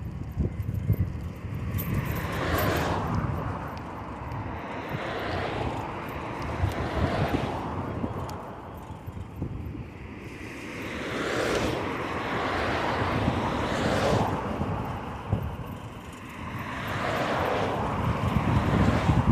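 Motor vehicles passing on the road alongside one after another, about five, each swelling and fading away, over a steady low wind rumble on the microphone of a moving bicycle.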